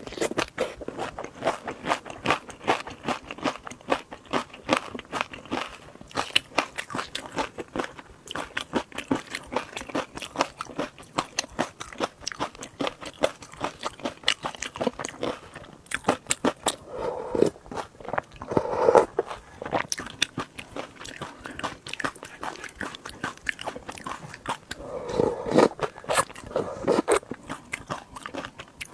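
Close-up eating sounds of shrimp: a continuous run of crisp crunches and chewing, with a few louder, lower bursts about two-thirds of the way through and again near the end.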